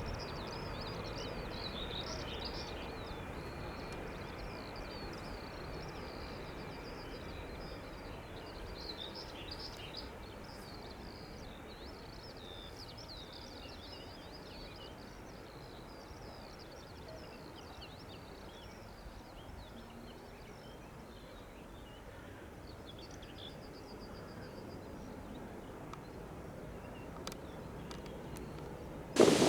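Small birds chirping over a steady low rumble that slowly fades, the engines of a distant aircraft dying away. Near the end a much louder rush of noise cuts in suddenly.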